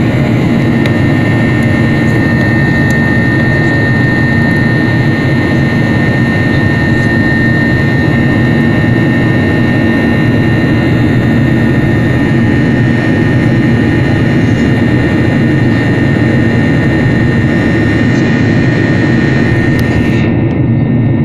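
Jet airliner cabin noise in flight: the steady drone of the engines and airflow, with a constant high whine over it.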